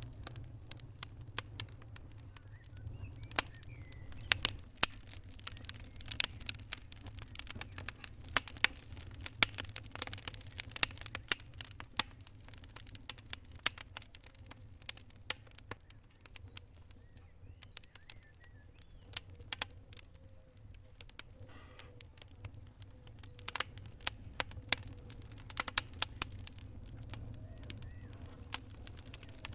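Wood fire crackling: irregular sharp pops and snaps over a low steady rumble of the burning fire, coming in thicker clusters at times.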